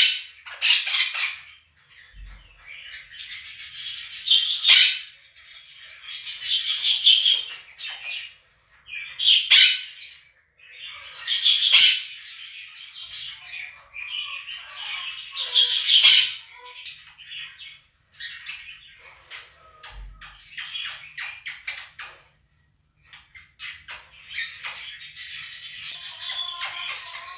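Two quaker parrots (monk parakeets) screeching in loud, harsh bursts every couple of seconds, over the softer, continuous chirping and chatter of a budgerigar flock played back from a recording.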